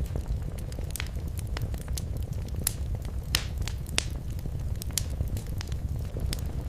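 Wood fire in a fireplace crackling: irregular sharp pops and snaps over a steady low rumble of burning, with a couple of louder pops around the middle.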